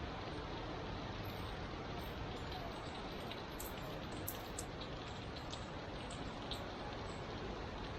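Steady rain falling, with scattered sharp taps of raindrops hitting a nearby surface, most of them around the middle.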